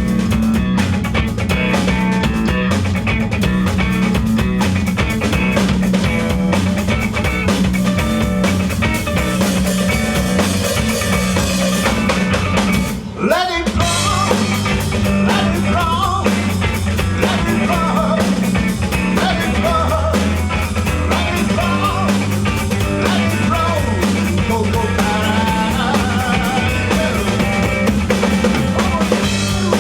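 Rock band playing live: drum kit pounding out a steady beat under electric guitar and bass, with a brief break about halfway through before the band comes back in.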